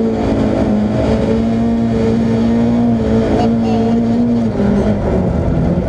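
Mercedes-Benz 190E 2.3-16V's 16-valve four-cylinder engine heard from inside the cabin, held at steady high revs under power, then the revs drop about four and a half seconds in.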